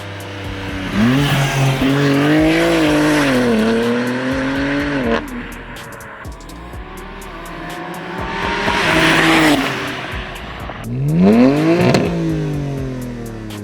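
BMW G80 M3's twin-turbo inline-six running through a modular catback exhaust with 4-inch tips, its pitch rising and falling with the revs several times, with the sharpest climb near the end.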